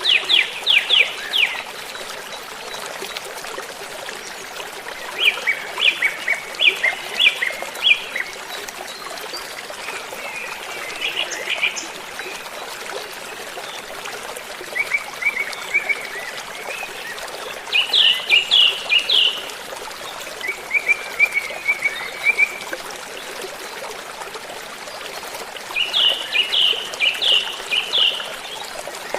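A songbird singing short phrases of quick, repeated sharp notes, one phrase every few seconds, over a steady background hiss.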